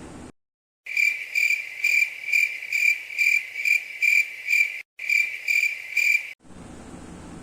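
Chirping cricket sound, a steady high trill pulsing a little over twice a second. It cuts in abruptly after a moment of dead silence, drops out briefly partway through, and cuts off just as abruptly.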